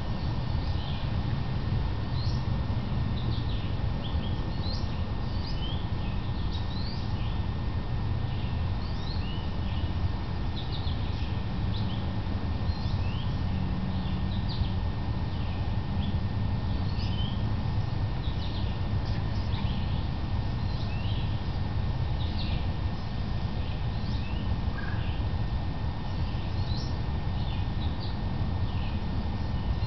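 Songbirds chirping in the background, short high notes scattered all through, over a steady low rumble.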